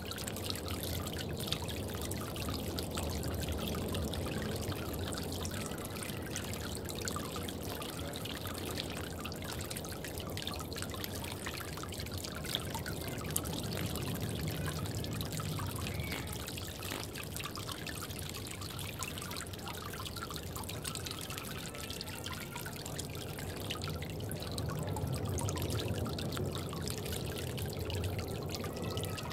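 Water trickling steadily in a bird bath.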